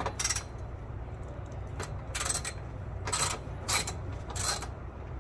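Short bursts of metallic clicking and rattling, about six of them, from work on bolt-on exhaust hardware. A steady low hum runs underneath.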